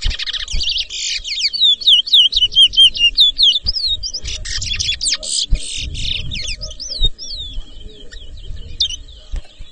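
Towa-towa seed finches singing in a bird race: rapid runs of clear whistled notes sliding down in pitch, mixed with buzzy trills, densest and loudest in the first half.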